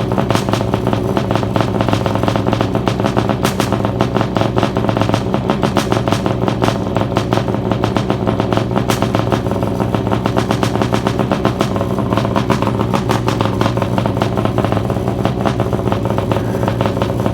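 Freshly rebuilt Yamaha 701 two-stroke twin in a stand-up jet ski, fitted with a dry-mod cheater pipe exhaust, running steadily at an even speed on its first start after the rebuild.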